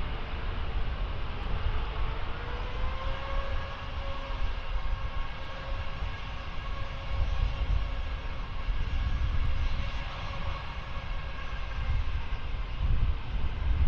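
Jet airliner engines running with a steady whine of several tones, rising slightly in pitch about three seconds in, over a low rumble.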